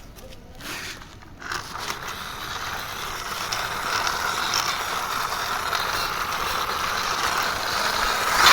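Gears of a hand-pushed plastic toy airliner whirring as it is run along by hand, building up over the first few seconds and then running steadily, with a click near the end.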